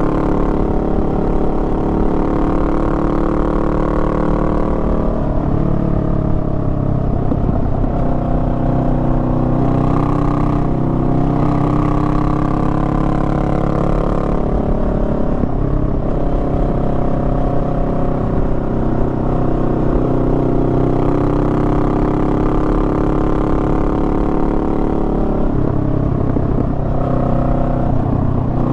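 Honda Rebel 500's parallel-twin engine running while riding. Its pitch rises and falls with the throttle, shifting noticeably about 5, 10, 15 and 26 seconds in.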